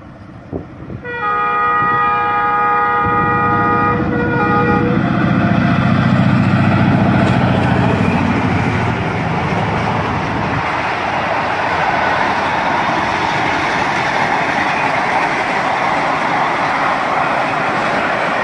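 Diesel locomotive ZCU-30 of a passenger express sounding its multi-tone horn for about four seconds, starting about a second in, as it approaches. Its engine's low rumble swells and passes, then gives way to the steady rushing of the coaches' wheels on the rails.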